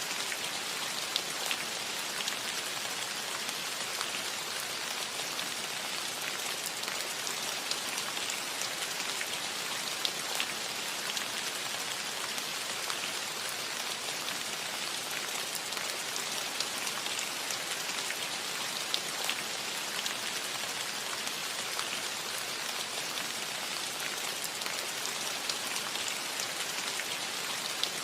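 Steady rain falling on a cottage roof: an even hiss with scattered individual drops ticking on the surface.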